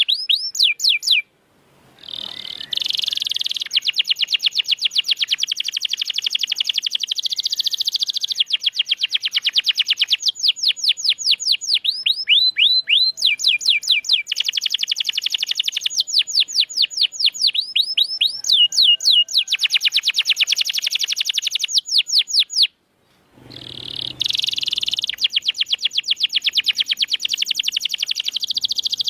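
Domestic canary singing continuously, with fast runs of repeated falling notes alternating with dense buzzing rolls. The song breaks off briefly twice: about a second in and again about three-quarters of the way through.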